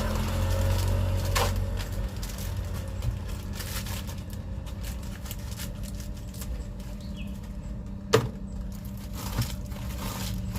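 A motor vehicle engine running steadily, with scattered light clicks and one sharp knock about eight seconds in.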